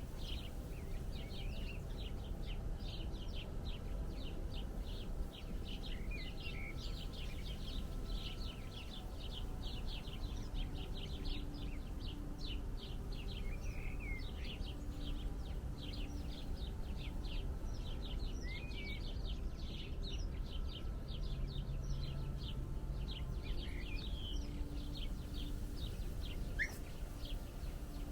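A flock of small birds chirping continuously, with many rapid short chirps overlapping and a few gliding calls among them, over a steady low background rumble.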